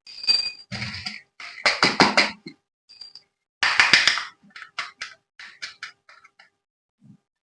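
Toy packaging and plastic parts handled during unboxing: bursts of clicking and rattling, heaviest about two and four seconds in, then lighter scattered ticks.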